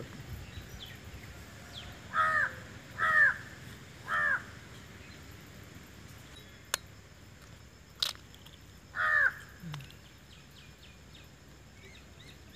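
A bird calling four times: three calls about a second apart from about two seconds in, and one more near nine seconds. Two sharp clicks fall between them.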